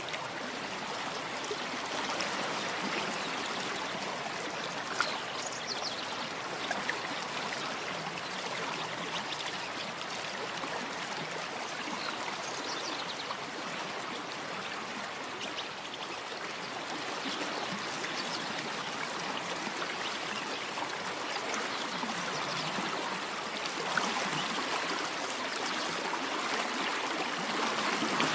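A small stream of water running and trickling steadily, with a few brief clicks or splashes standing out.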